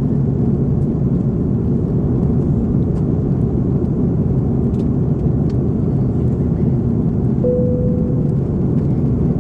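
Steady, even cabin drone inside an Airbus A330-300 with GE CF6-80 engines. A short single steady tone sounds about seven and a half seconds in.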